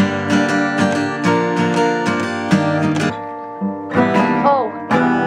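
Acoustic guitar strummed in steady chords, about three strums a second, with a chord left ringing midway; the guitar is untuned.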